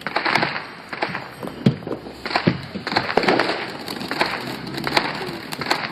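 Fireworks grand finale going off: a dense, irregular barrage of sharp cracks and pops.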